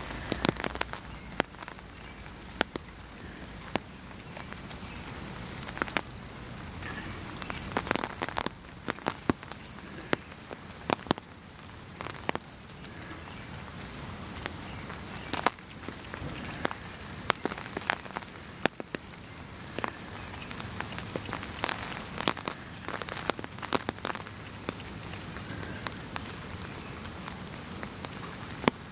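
Steady rain falling, with sharp, irregular taps of individual drops striking close by.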